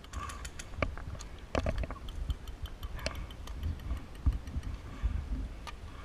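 Airsoft gun fire: a quick string of sharp clicking shots, about six a second, with a few louder knocks mixed in and low handling and wind rumble beneath.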